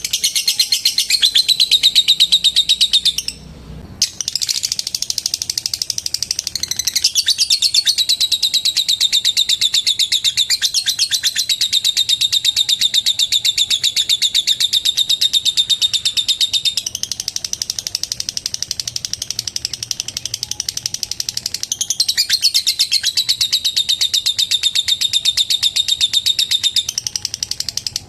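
Female lovebird in a long ngekek: a fast, unbroken, high-pitched chattering trill of rapid clicks. It breaks off briefly about three seconds in, then runs on.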